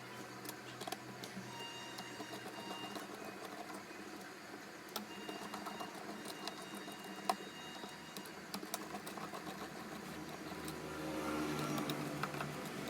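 Faint clicks and taps of small laptop parts being handled during reassembly, over a steady low hum.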